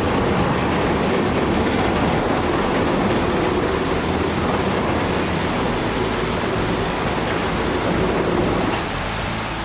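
A steady, heavy rumbling roar of a large concrete structure coming down in a controlled demolition. It eases off slightly near the end.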